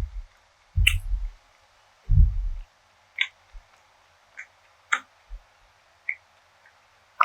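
Close-miked eating of potato bread: low, dull chewing sounds in three bouts over the first two and a half seconds, then scattered single sharp mouth clicks about once a second.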